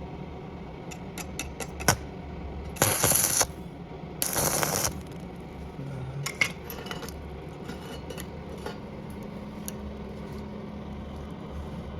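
Small scrap-metal parts being handled, with a run of sharp metallic clinks. Two short harsh rasping bursts come about three and four and a half seconds in, and scattered clicks follow.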